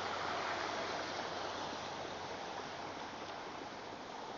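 Steady rushing hiss of wind outdoors in a snowstorm, easing slightly toward the end.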